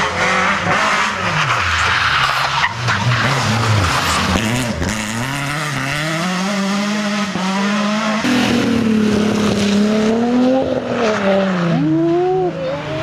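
Rally car engines revving hard and dropping back through gear changes, pitch rising and falling repeatedly, with a sudden switch to another car's engine about eight seconds in.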